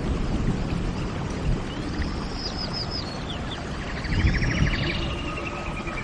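Birds calling in an indoor tropical rainforest exhibit: a quick run of four or five short, high, arched whistled notes about two seconds in, then a rapid buzzy trill around four seconds, over a steady low background rumble.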